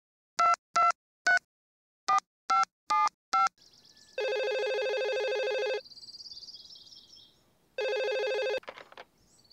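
Touch-tone telephone being dialed, seven short keypad beeps, then the line ringing: one full ring and a second ring cut short with a click as the call is picked up. Crickets chirp softly underneath.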